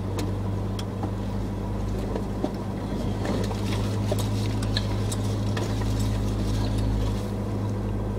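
Car engine running at low speed, heard from inside the cabin as the car moves slowly: a steady low hum, with a few scattered light clicks.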